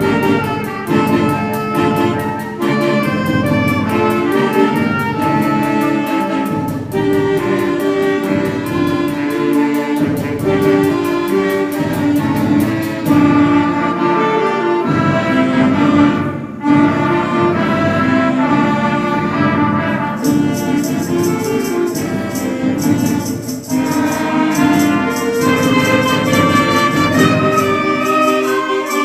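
School wind band playing a concert piece, with many instruments sounding together in held and moving notes. About two-thirds of the way through, a rattling percussion instrument comes in, keeping a steady beat.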